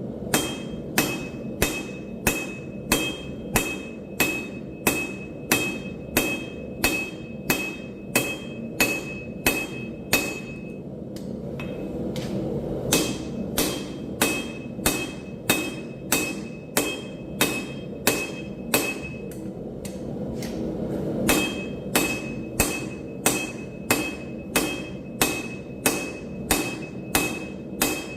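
Steady hammer blows forging steel on an anvil, about two a second, each strike leaving a bright metallic ring. The blows stop twice for a couple of seconds, about eleven and twenty seconds in. A steady low rushing noise runs underneath and swells during those pauses.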